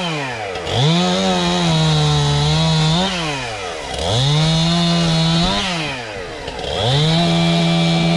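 Two-stroke chainsaw revved to full throttle three times, each burst held one and a half to two and a half seconds before the engine drops back toward idle, as it cuts wood in short bursts.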